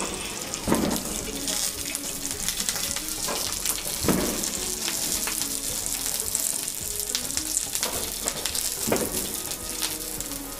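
Green chillies and garlic cloves frying in a little oil on a black flat pan, sizzling steadily. A wooden stick scrapes and turns them a few times.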